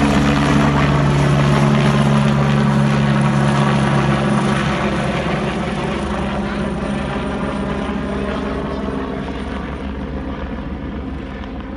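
Helicopter rotor and turbine engine running loud. About five seconds in its strongest low tones drop out and the sound slowly gets quieter.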